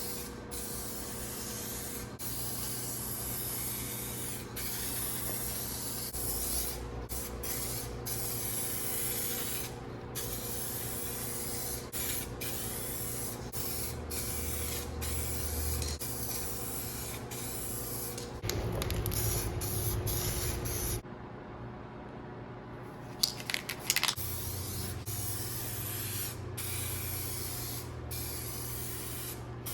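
Aerosol spray can of automotive paint spraying in long hisses, cut by brief pauses between passes. A few sharp clicks come after a short lull near the end.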